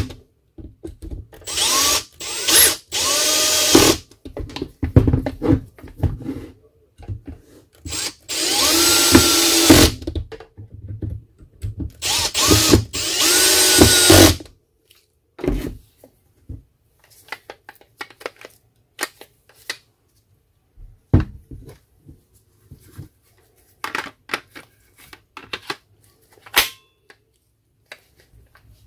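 Makita DGA505 cordless angle grinder switched on in several short runs, each spinning up with a rising whine and winding down again, the longest about two seconds; the grinder is running again after its switch repair. In the second half only scattered clicks and light handling knocks are heard.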